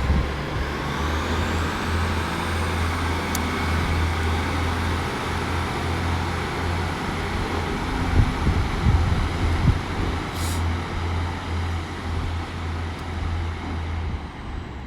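Diesel train pulling out of the station: a steady low engine note under a high whine that climbs in pitch early on, holds, and falls away near the end.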